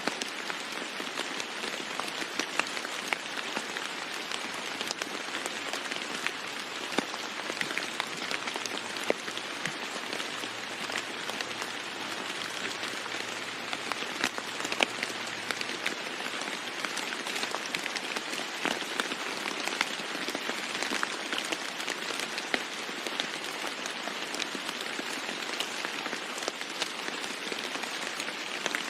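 Steady heavy rain falling on a roof, an even hiss with many sharper single drop hits scattered through it.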